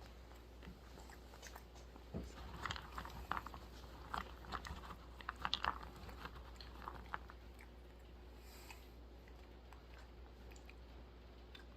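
Dry roasted almonds being bitten and chewed close to the microphone: a run of sharp, brittle crunches starting about two seconds in and lasting some five seconds, then fading to quiet chewing.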